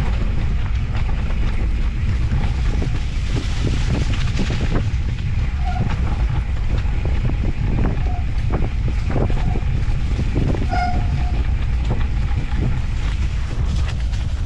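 Off-road handcycle rolling over a dirt trail, with its tyres and frame knocking and rattling over bumps. A steady low rumble of wind on the microphone runs underneath, and a few short high squeaks come near the middle.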